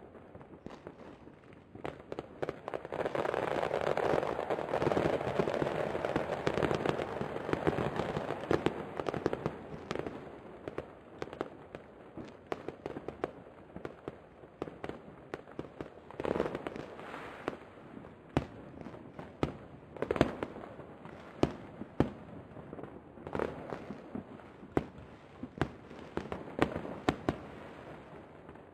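Aerial fireworks shells bursting: a dense barrage of overlapping bangs from about two seconds in until about ten seconds, then separate sharp bangs every second or two.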